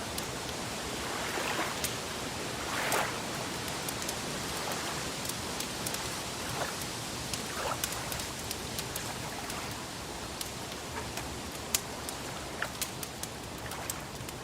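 Gentle lake water lapping and splashing against a steady hiss, with scattered sharp pops and crackles from a wood fire.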